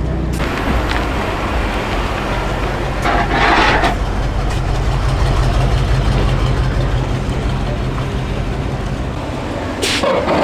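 A vehicle engine running steadily with a low rumble. A short noisy burst comes about three seconds in.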